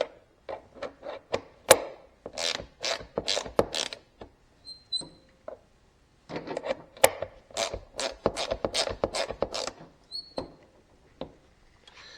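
Ratchet wrench clicking in two runs of quick strokes while a zero-turn mower's lap bar is being adjusted outwards, with a few single clicks near the end.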